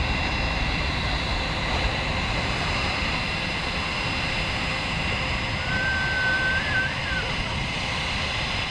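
Jet aircraft engines running steadily: a constant roar with several high whining tones over it. A brief high whistle comes about six seconds in.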